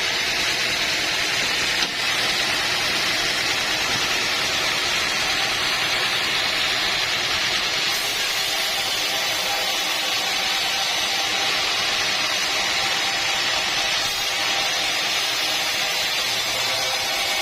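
Sawmill machinery running with a steady, even noise.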